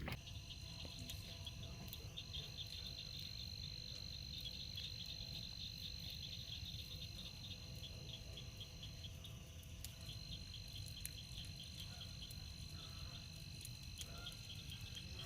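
Night chorus of frogs and insects: a steady high-pitched trill that breaks off for about a second around nine seconds in, over rapid pulsing calls, with a low rumble underneath.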